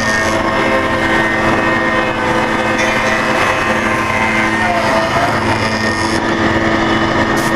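Balestrini profiling tenoner running steadily, its spindle motors and cutters making a dense, even machine noise with several held tones.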